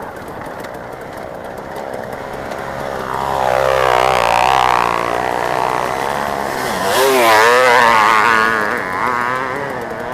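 Motocross bike engines revving hard, pitch jumping rapidly up and down as bikes pass, loudest about four seconds in and again about seven to eight seconds in.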